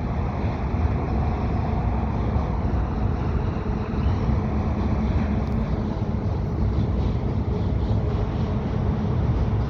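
Freight cars of a mixed freight train rolling across a steel truss bridge: a steady low rumble of wheels on rail.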